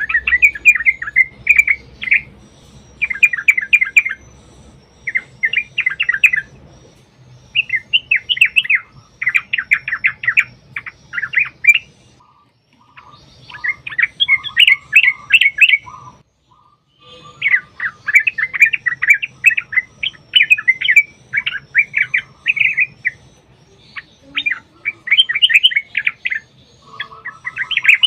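Yellow-vented bulbul (trucukan) singing a long, fast rolling song ('ropel'): bursts of rapid chattering notes in phrases of one to three seconds with short breaks. A lower, softer run of notes comes in for a few seconds midway and again near the end.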